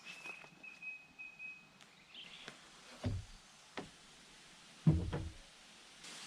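A high thin call in short pieces during the first two seconds, then a few dull thuds outdoors, the loudest about five seconds in.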